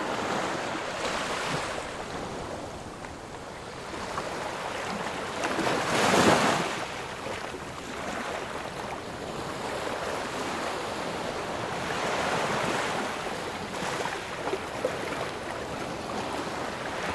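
Ocean surf: waves breaking and washing up the shore in a steady rush, one wave breaking loudest about six seconds in.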